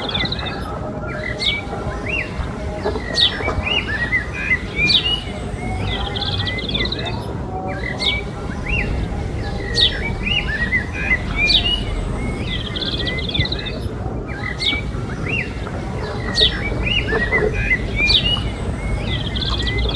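Small birds chirping in short, repeated bursts every second or two, over a steady low background rumble.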